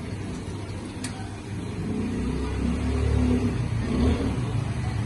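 Espresso machine running with a low rumbling hum that grows louder about two seconds in, and a single sharp click about a second in.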